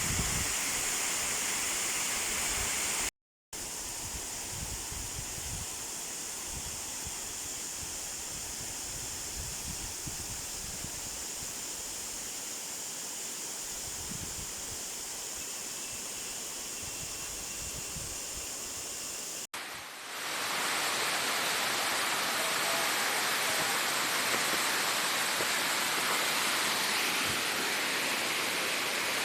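Waterfall, its falling water rushing in a steady, even hiss. The sound drops out completely for a moment about three seconds in, and at a cut about twenty seconds in it comes back louder and brighter.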